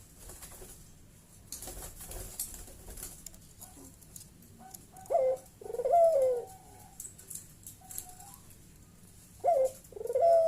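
Barbary dove (puter) cooing, twice a few seconds apart: each time a short note followed by a longer, arching coo.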